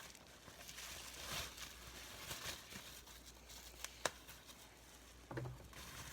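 Plastic wrapping being torn and peeled off a magazine: faint crinkling and crackling with small clicks, and one sharp click about four seconds in.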